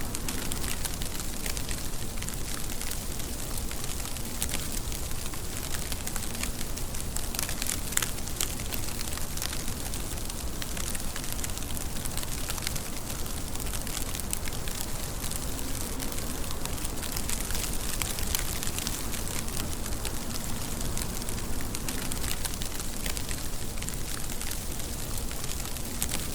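Steady rain falling: an even hiss dotted with many crisp little ticks of drops striking a surface.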